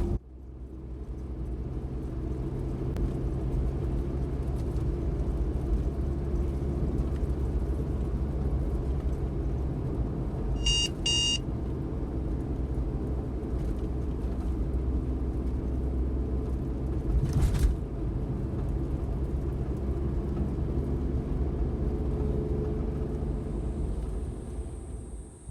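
Suzuki Every kei van's engine and road noise, a steady low rumble while driving. About eleven seconds in, two short electronic beeps sound; the running sound fades out near the end.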